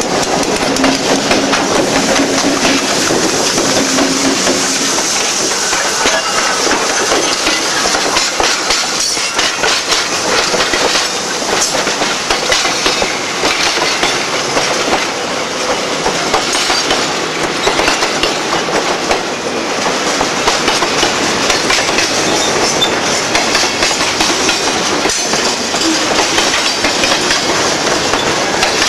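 Train rolling by, its wheels clattering over rail joints in a continuous run of clicks and rattling.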